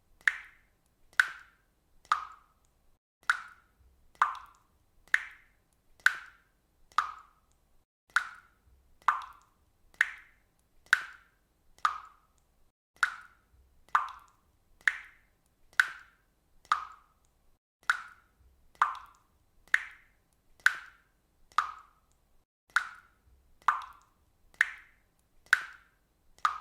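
Water dripping: single drops falling into water, a short plop about once a second in a steady, even rhythm.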